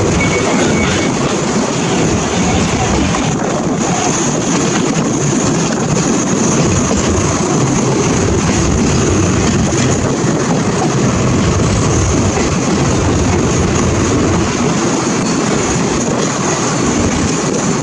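Thai express passenger train running, heard from an open window of one of its own coaches: a steady, loud rumble of wheels and coaches on the track.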